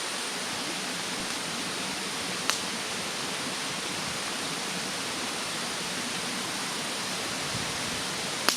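Wood bonfire in a fire stand crackling: two sharp pops, one about two and a half seconds in and a louder one near the end, over a steady rushing hiss.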